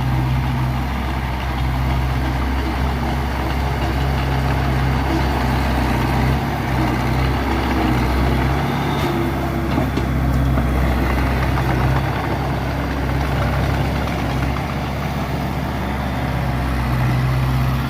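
Heavy diesel engine of an earthmoving machine running steadily at a low, even note, with a continuous dense rattle over it.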